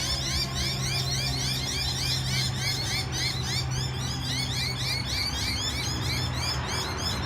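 Rapid, repeated high chirps from small birds over a steady low hum.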